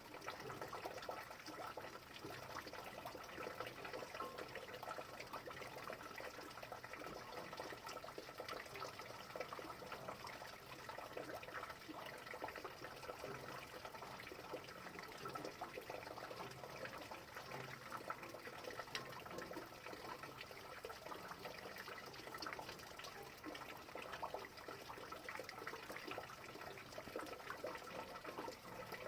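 Steady rain falling: a dense, even patter of small drops that runs on without change.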